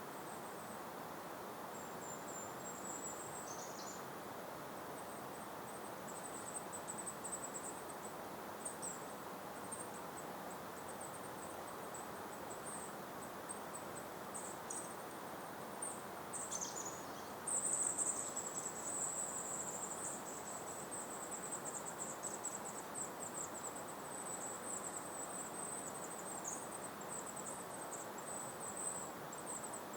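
Very high-pitched, thin songbird trills in short bursts with a few quick downward slurs, turning into a nearly continuous trill from a little past halfway, over a soft steady hiss of breeze.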